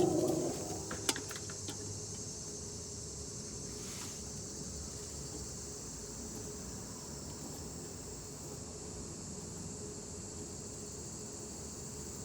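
Steady high-pitched chirring of insects, with a few small clicks about a second in.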